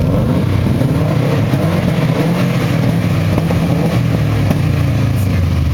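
Subaru Impreza flat-four engine revving through a loud aftermarket exhaust: the engine picks up sharply at the start, holds its revs, and drops back about four to five seconds in.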